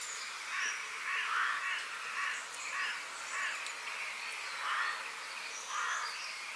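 A crow cawing in a run of harsh calls, about two a second with short gaps, over a steady outdoor hiss, while small birds chirp faintly and higher.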